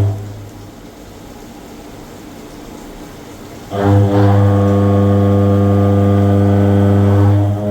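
CNC milling machine running with a steady low hum. The hum drops away just after the start and starts up again loudly about four seconds in.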